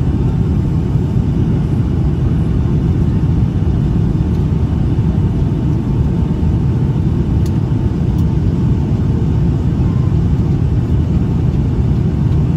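Steady cabin rumble inside a Boeing 757-200, from its Pratt & Whitney PW2000 engines and the airflow over the fuselage.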